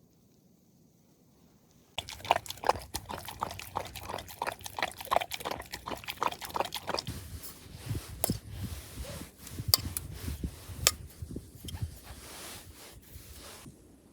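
A dog lapping water, a quick rhythmic series of about four laps a second, followed by scattered clicks and knocks.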